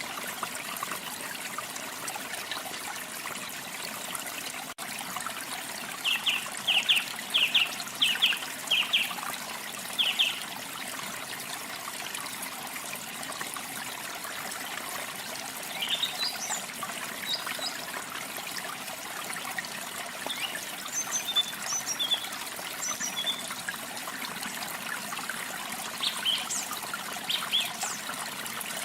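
Waterfall water trickling and splashing steadily, with birds singing over it: a run of about seven short, loud notes from about six to ten seconds in, then scattered higher chirps through the second half.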